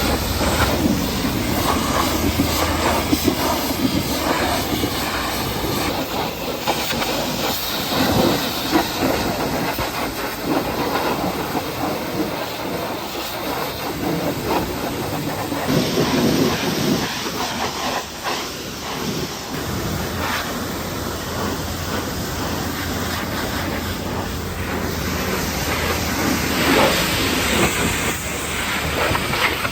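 Pressure washer spraying water over a truck: a continuous hiss that changes in tone as the spray moves across surfaces, with the low hum of the washer's motor under it.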